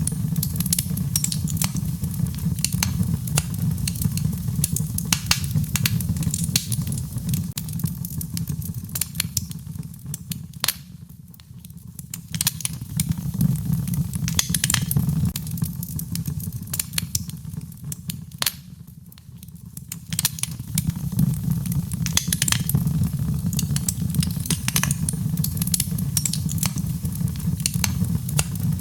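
Wood fire crackling in a fireplace: dense irregular pops and snaps over a steady low rumble of burning. The crackle eases off briefly twice, about a third and two thirds of the way through.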